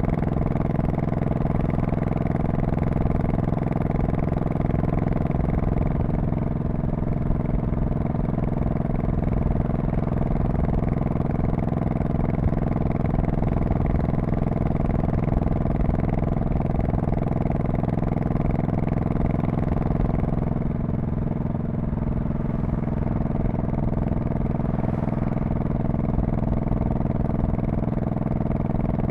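2002 Honda Shadow Spirit VT1100C's V-twin engine and exhaust running steadily under way, with a slight drop in level about twenty seconds in.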